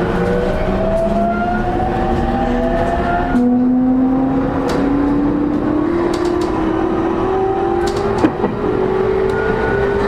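E231 series electric train heard from inside a motor car: the inverter and traction motors whine in several tones that rise steadily in pitch as the train accelerates, over the rumble of the running gear. A single sharp knock near the end.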